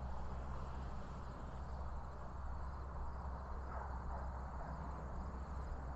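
Steady outdoor background: a continuous low rumble with faint insect chirring above it.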